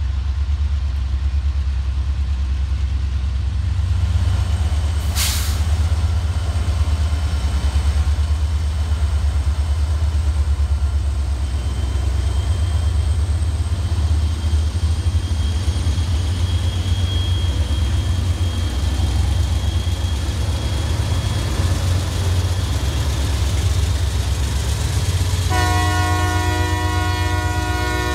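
Freight train passing behind a Norfolk Southern diesel locomotive: a loud steady low rumble of engines and rolling cars, with a brief burst of noise about five seconds in. Near the end a multi-note train horn starts blowing and holds.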